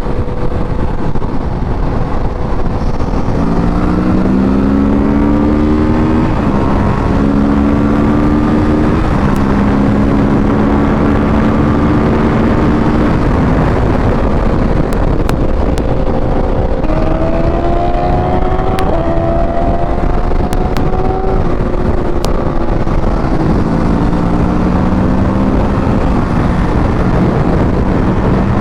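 Kawasaki Ninja 650's parallel-twin engine accelerating through the gears, its pitch climbing and then dropping back at each upshift, several times over. Heavy wind noise on the microphone runs underneath.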